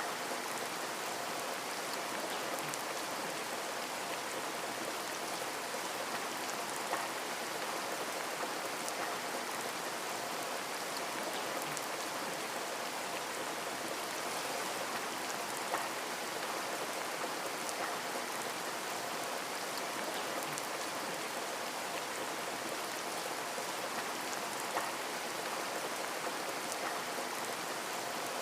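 Steady rain falling on a window, an even hiss of many drops with occasional single louder drop taps.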